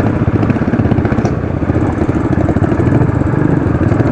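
Royal Enfield Classic 500's single-cylinder engine pulling steadily under load up a steep climb, with a fast, even pulse of firing strokes.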